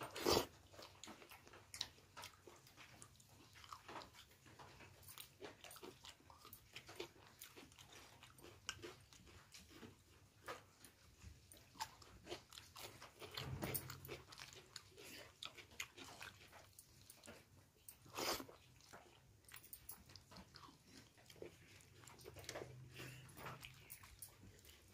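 A person eating khichdi close to the microphone: soft wet chewing and mouth clicks with a few louder crunchy bites, the loudest about 18 seconds in.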